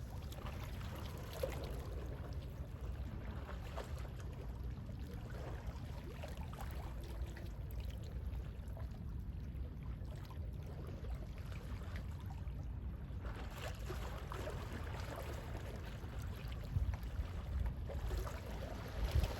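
Gentle sea waves washing and lapping at the shore over a low, steady rumble, with the wash growing fuller in the last few seconds.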